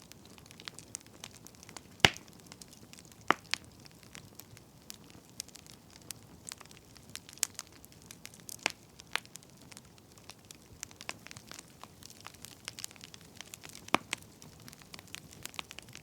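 Wood fire crackling: irregular pops and snaps over a faint steady hiss, with the sharpest pop about two seconds in and another strong one near the end.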